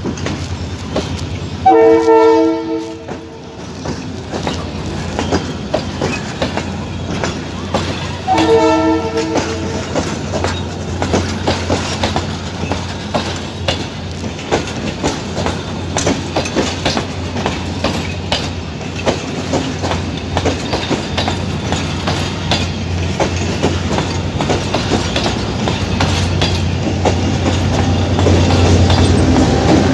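Passenger train rolling slowly past, its wheels clacking over the rail joints with a steady rumble. The train horn sounds twice, about two and eight seconds in, each blast about a second and a half long. Near the end the diesel locomotive's engine drone grows louder as it comes alongside.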